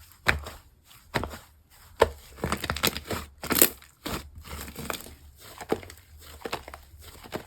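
Slime being squished and poked by hand: an irregular run of short sticky, crackly pops, the loudest about two and three and a half seconds in.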